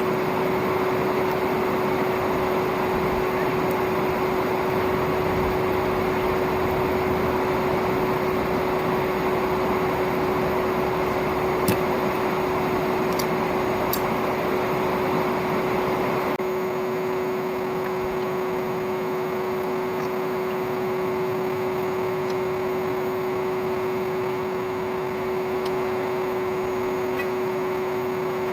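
An old vacuum cleaner motor running steadily as the air blower of a homemade coal forge: a constant whirring drone with one steady hum-like tone. Its low rumble lightens a little past halfway.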